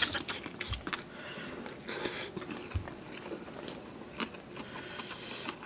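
Close-up chewing of a mouthful of spicy instant noodles mixed with chopped bird's-eye chilies: wet, clicking mouth sounds with a few short hissy slurps and breaths.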